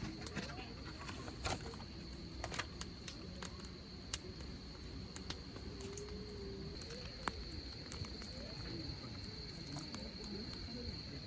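Insects trilling steadily at one high pitch, with scattered sharp crackles and pops from a hardwood campfire and faint distant voices underneath.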